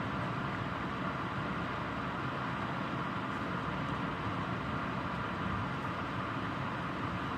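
Heavy rain falling steadily during a thunderstorm, an even, unbroken hiss.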